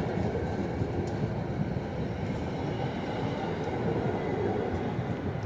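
A SEPTA push-pull passenger train's coaches rolling past, wheels running on the rails in a steady rumble.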